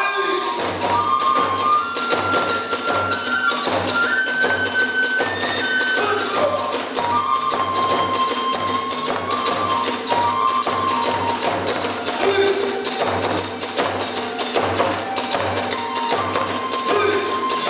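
Hiroshima kagura accompaniment (hayashi): a bamboo flute plays a melody of held notes over steady drum beats, about two a second, and small clashing cymbals.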